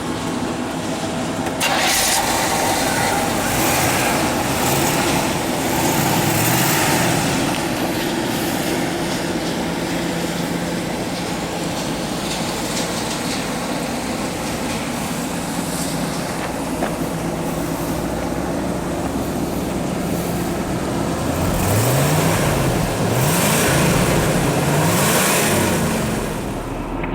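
The 1977 Corvette's 350 cubic-inch small-block V8 running steadily, its pitch rising and falling several times near the end.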